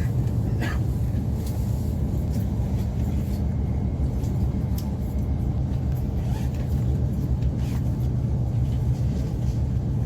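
Steady low rumble of an E5 series Shinkansen running at speed, heard inside the passenger cabin, with a few faint light ticks.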